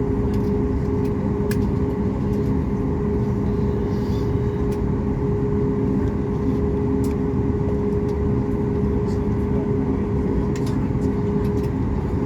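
Steady cabin noise inside a Ryanair Boeing 737 MAX 8-200: a constant hum with a steady mid-pitched tone, and a few faint clicks.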